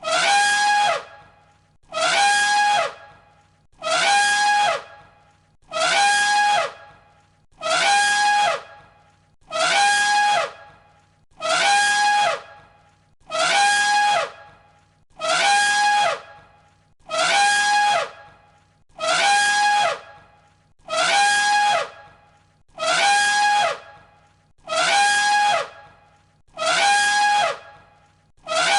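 An elephant trumpet call played on a loop: the same short, loud, brassy blast repeats about every two seconds, each about a second long, opening with a quick downward slide into a steady high tone.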